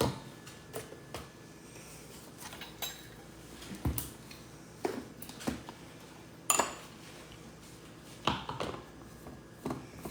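Spoon, scoop and dishes clinking and knocking while smoothie ingredients are spooned into a blender jar: a dozen or so separate clicks and knocks, a few with a short ring.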